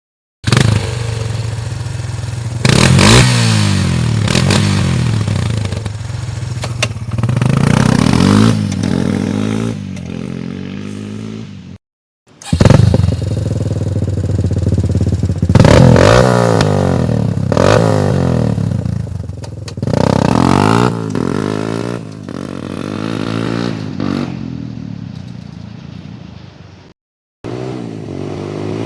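Suzuki LTZ 250 quad's single-cylinder four-stroke engine idling and being revved up and falling back again and again. The sound breaks off twice, briefly and suddenly.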